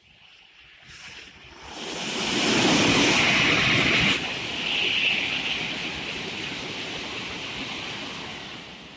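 Tokaido Shinkansen train passing through the station at speed: a rushing roar that swells over a couple of seconds, drops off suddenly about four seconds in, then fades away slowly.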